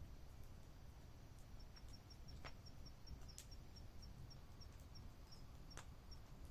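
Faint campfire crackling: a few scattered sharp pops over a low hiss. From about one and a half seconds in, an insect chirps steadily at about four short high chirps a second.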